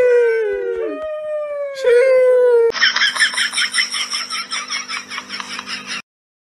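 A dog howling in long, falling notes. About two and a half seconds in, it cuts off abruptly and a fast pulsing sound takes over, about six pulses a second over a steady hum, which stops suddenly near the end.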